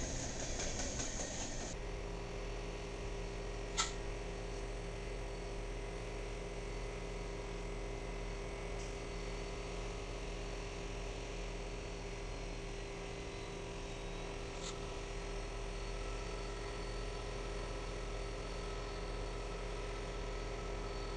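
A freight train rolling past, then a steady low mechanical hum from a slow-moving train of tank cars, with a few faint clicks.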